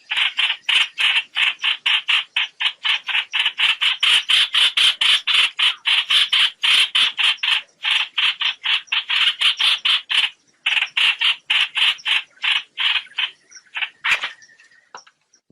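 Trao trảo flock call, as played to lure birds into nets: rapid, harsh calls repeated about five a second. The calls break off briefly a little past ten seconds, then thin out and fade near the end.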